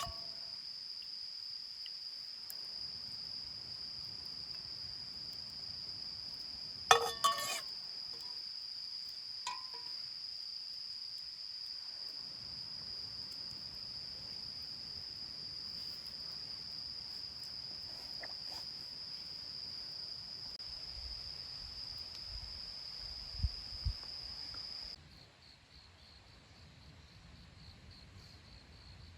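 Autumn night insects trilling in one steady high, continuous note. About seven seconds in there are two sharp clinks, and a few faint knocks come later. Near the end the trill stops suddenly, leaving a quieter, pulsing chirp.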